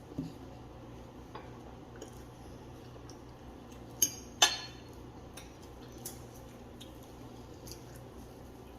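Quiet eating and handling sounds: scattered small clicks, with two sharp clinks close together about four seconds in, the second ringing briefly, like a utensil or dish being knocked.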